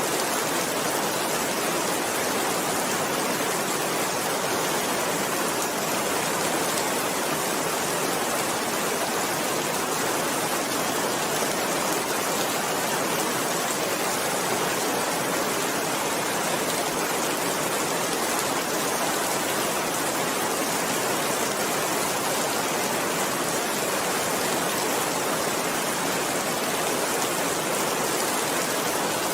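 Steady rain falling, an even, unbroken hiss with no single drops, thunder or other events standing out.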